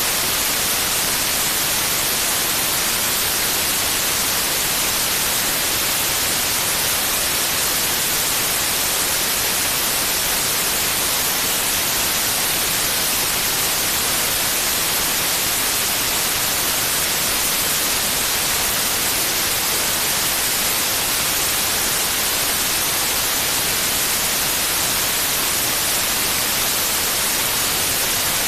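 Steady, unbroken white noise: an even hiss, strongest in the high range, played for a baby's sleep.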